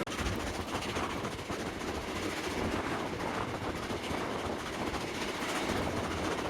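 A train running along the track: a steady noise of the moving train and rails.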